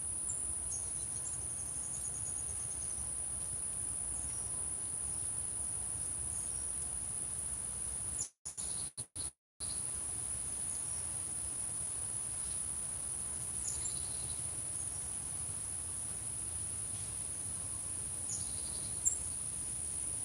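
Crickets singing in a steady, unbroken high-pitched chorus, with a few faint bird chirps over it. The sound drops out several times for about a second just after the middle.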